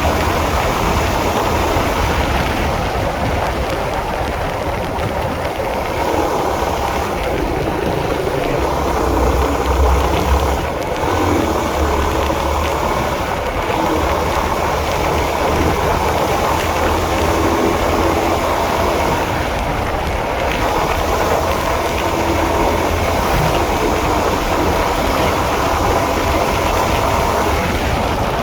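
Honda CB150R motorcycle being ridden, its engine running under a steady mix of wind and road noise, with a louder bump about ten seconds in.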